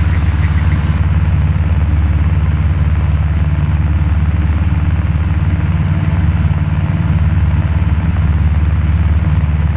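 Cessna 172 Skyhawk's piston engine and propeller droning steadily in flight, heard from inside the cabin.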